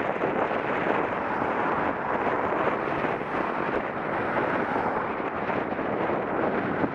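Steady wind rush buffeting an action camera's microphone while cycling, a continuous noisy roar with no distinct events.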